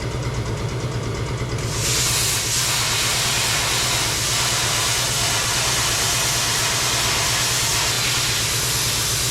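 A steady low machine hum throughout, joined about two seconds in by a loud, even hiss of rushing gas or air that holds steady.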